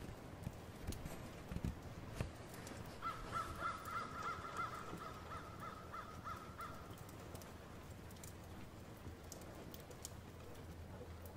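A bird calling in a quick run of about a dozen short, similar notes lasting a few seconds, over a steady low hum. A few soft knocks come in the first couple of seconds.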